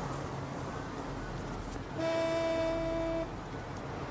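A car horn sounds one steady honk, held for just over a second about two seconds in, over a low steady hum of traffic.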